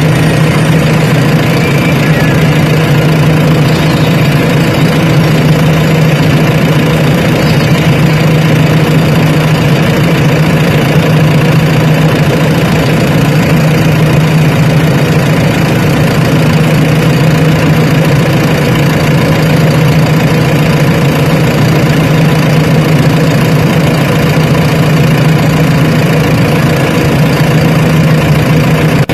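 Heavy diesel engine running steadily, a constant low drone that does not rise or fall in speed.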